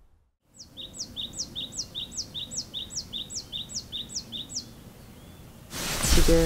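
A small songbird singing a quick, evenly repeated two-note phrase about ten times, each note a high downward sweep followed by a short lower note. Near the end a loud burst of noise starts.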